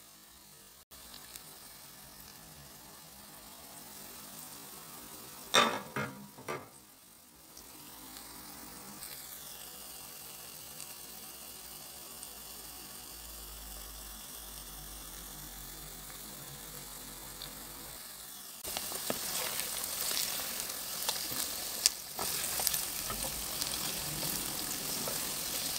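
Eggs sizzling as they fry in a wok with onions and green chillies. About five and a half seconds in there are a couple of sharp knocks. Around two-thirds of the way through, the sizzle becomes louder with scattered clicks.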